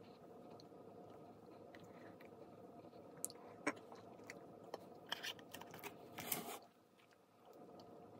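Faint chewing and mouth sounds of someone eating a mouthful of Swiss Roll ice cream, with scattered small clicks and smacks and a louder brief noise a little past six seconds in, over a steady low hum.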